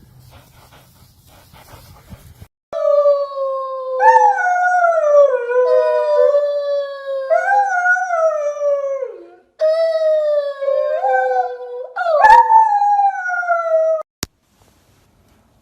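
A dog howling in a run of long calls, each sliding up and then drooping, with a short break about halfway. The howling cuts off suddenly near the end, followed by a single click.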